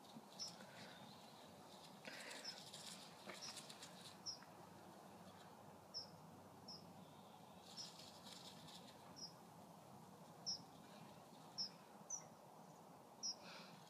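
Near silence outdoors, broken by a small bird's faint, short, high chirps, about a dozen of them at irregular intervals of roughly a second.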